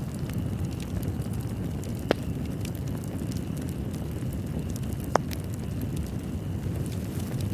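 Fireplace crackling over a steady low rumble of flames, with scattered small crackles and two sharper pops about two and five seconds in.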